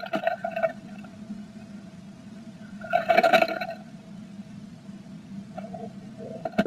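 Blue tit moving inside a nest box and working at nesting material: two bursts of scratching and scraping, one at the start and a louder one about three seconds in, with smaller scrapes near the end, over a steady electrical hum from the box's camera setup.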